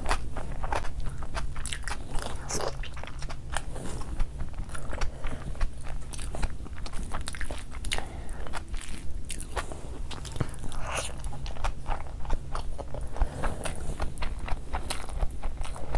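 A person chewing mouthfuls of fried rice mixed with curry gravy, eaten by hand: close, wet chewing with many small irregular clicks and crackles.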